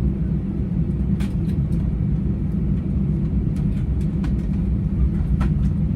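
Steady low rumble inside the cabin of an Airbus A320 on the ground ahead of takeoff, with a few faint clicks and rattles on top.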